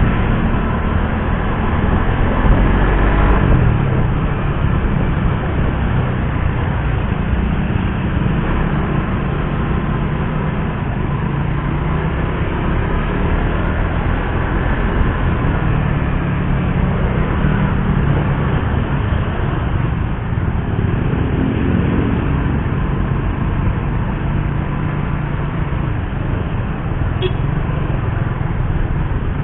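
Suzuki GSX-R150's single-cylinder engine heard from the bike while riding, its pitch rising and falling with the throttle and gear changes, with a longer climb about twenty seconds in. A steady rush of wind and road noise runs under it.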